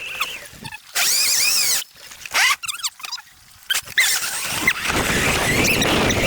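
ETM RTR electric dirt bike on a trail, giving a high-pitched squealing whine in short, rising-and-falling bursts, broken by sudden drops.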